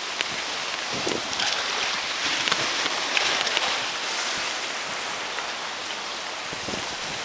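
Storm-surge waves washing against the shore and strong gusty wind blowing over the microphone, with a slightly louder surge about a second in.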